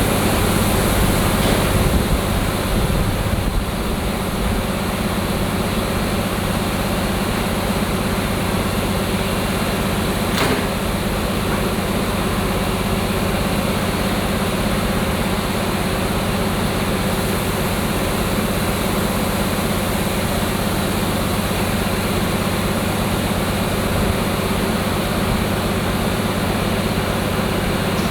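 Diesel train engine running steadily with a constant low hum, and a single short knock about ten seconds in.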